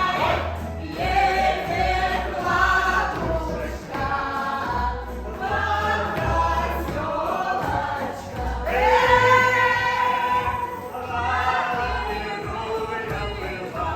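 Music: a choir singing a song over a bass line, with long held notes about nine seconds in.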